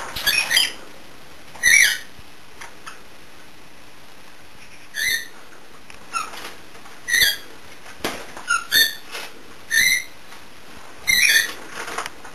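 Small pet parrots giving short whistled calls: about ten brief chirps spaced irregularly, some in quick pairs.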